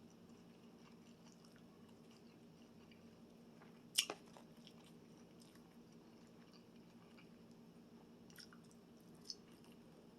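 A person quietly chewing a meal of fried chicken wings and french fries, with one sharp crunchy bite about four seconds in and two fainter mouth clicks near the end.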